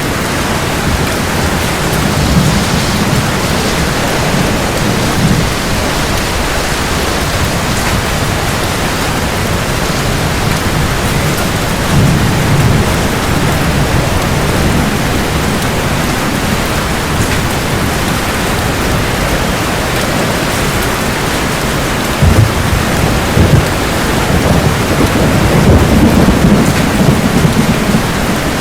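Heavy rain falling steadily, with low thunder rumbling in several swells. Two sharper thunder cracks come about two-thirds of the way through, followed by a longer rumble near the end.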